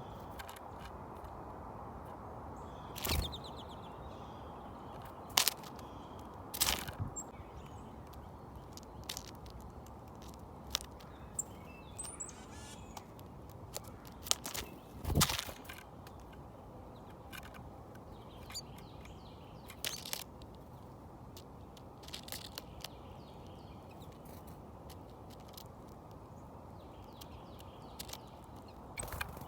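Birds outdoors: a few faint chirps and calls among scattered sharp taps and knocks, over a steady low hiss.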